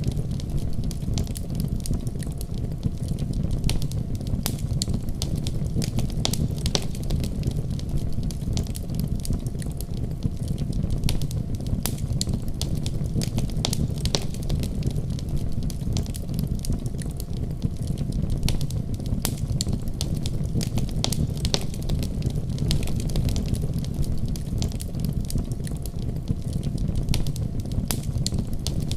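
Fire burning in a fireplace: frequent sharp, irregular crackles and pops over a steady low rumble of the flames.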